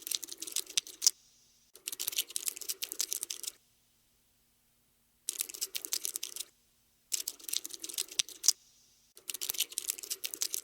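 Cockroach scuttling sound effect: bursts of rapid dry clicking, each lasting a second or so, five times with short silent gaps between.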